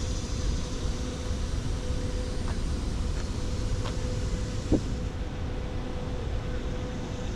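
Steady rushing noise of high water pouring through a spillway, with a faint steady tone under it and one short knock a little past halfway.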